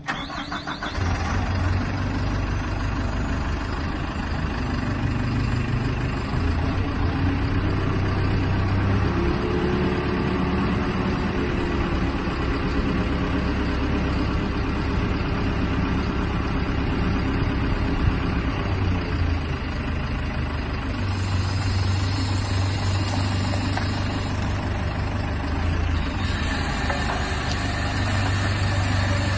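Hydrema dump truck's diesel engine running steadily. From about a third of the way in to about two thirds, a higher steady whine sits over it as the hydraulics work the bin.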